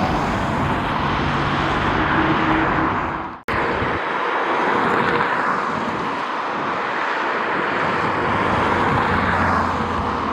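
Jet airliner engines running, a steady broad roar, cut off for an instant about three and a half seconds in and then resuming.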